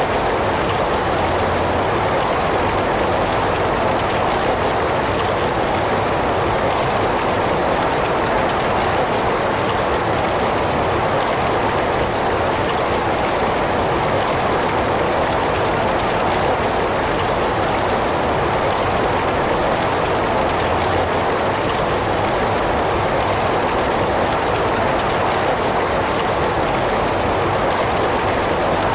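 Heavy rain falling in a steady, unbroken downpour, an even hiss of drops with no thunder or other events.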